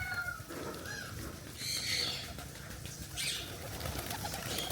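Faint bird and farm-animal sounds, with two short rustling noises about two and three seconds in.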